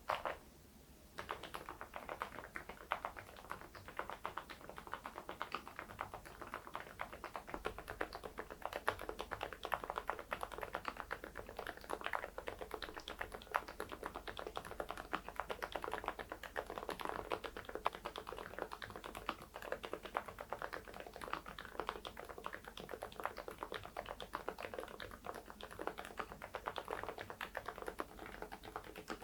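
Steady fast typing on a mechanical keyboard fitted with thick PBT Cherry-profile keycaps: a dense, continuous run of keystroke clacks that starts about a second in.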